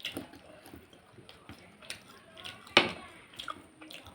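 Close-up sounds of someone eating chicken curry with rice: wet mouth clicks and smacks of chewing, with one sharp smack near three seconds in.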